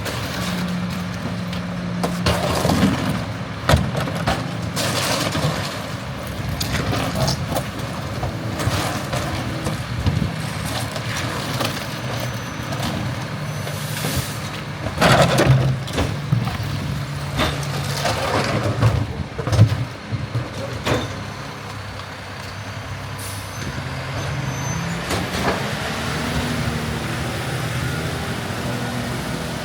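Garbage truck's diesel engine running while recycling is tipped into the hopper and packed, with repeated bangs and clatters and hisses of its air brakes.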